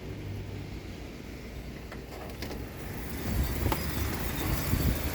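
Strong gusting wind buffeting a phone's microphone as a low, uneven rumble that grows louder about three seconds in, with a few faint clicks.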